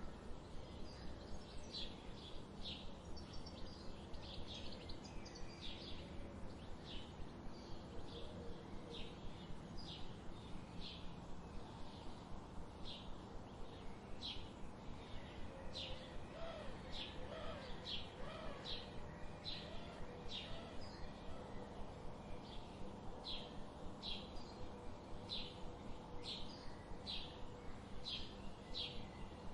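A small bird chirping over and over in a steady run of short, high chirps, a little more than one a second. It plays over a low, steady background noise, and a few lower, wavering notes come in around the middle.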